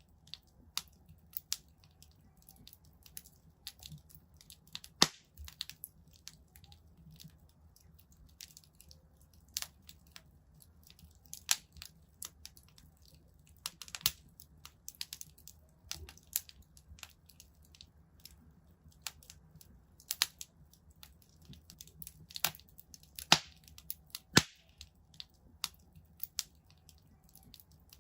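Wood fire burning in a fireplace, crackling with irregular sharp pops and snaps, a few of them loud, over a faint low rumble.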